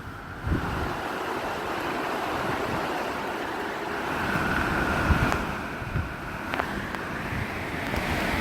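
Hurricane-force wind rushing steadily and buffeting the microphone through an open door, with a brief whistle about four seconds in and a few short knocks.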